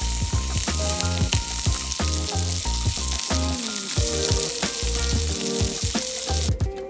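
Food sizzling and frying over high heat, a dense steady hiss that cuts off abruptly near the end, over background music with a steady bass line.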